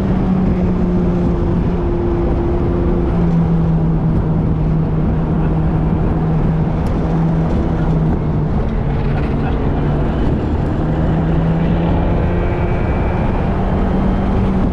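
Car engine running under load on a racetrack, heard from inside the cabin: a steady drone whose pitch drops and rises a few times over continuous road and wind noise.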